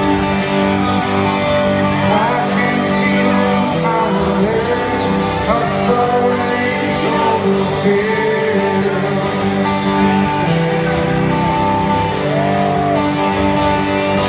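Live rock band playing in an arena: guitars picking a repeating pattern of held notes, with a singing voice over it.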